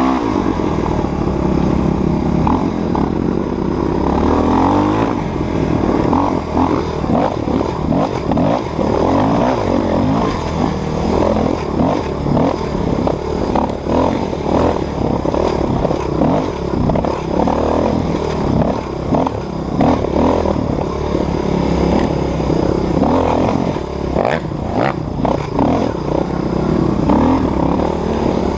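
Dirt bike engine revving up and down over and over as the bike is ridden, with clattering from the bike.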